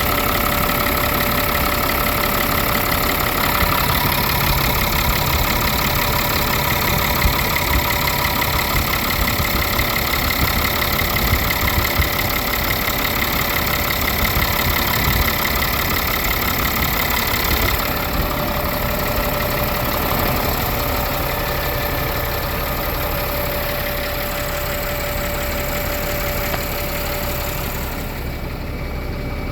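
Caterpillar 3126 inline-six diesel engine idling steadily. It gets a little quieter about eighteen seconds in.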